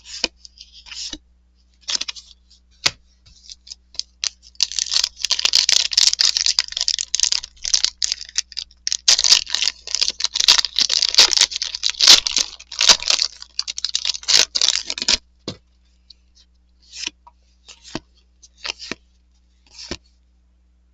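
Crinkling and tearing of a trading-card pack wrapper, a dense crackle lasting about ten seconds, with short clicks of cards being handled before and after.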